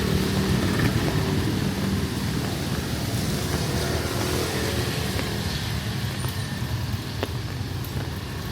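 A motor vehicle's engine running close by, a low steady hum that slowly fades, over a continuous hiss of falling rain.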